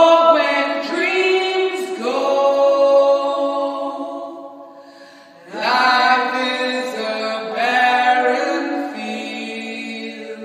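Unaccompanied voices singing long held notes, in about four phrases that swell up and fade away.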